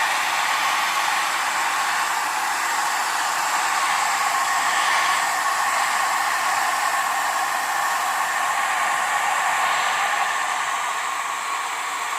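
Hair dryer running steadily, a constant blowing rush with a thin whine, used to melt leftover ice off a dehumidifier's frozen coil.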